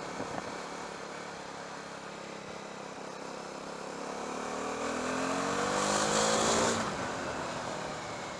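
KTM Duke 390's single-cylinder engine accelerating, its note rising steadily for about three seconds, then falling away abruptly near the end, over a steady rush of wind.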